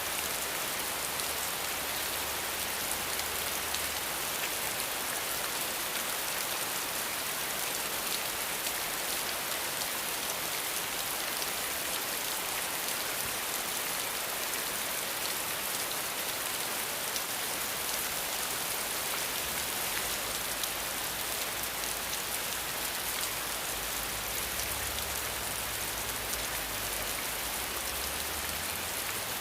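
Steady heavy rain falling, with individual drops ticking through the even hiss. A faint low rumble comes and goes underneath, returning about twenty seconds in.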